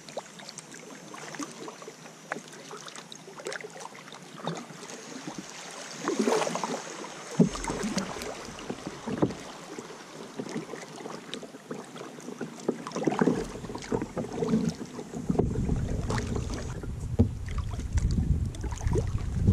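Kayak paddling: irregular paddle splashes and water swishing against the hull. Wind buffets the microphone with a low rumble over the last few seconds.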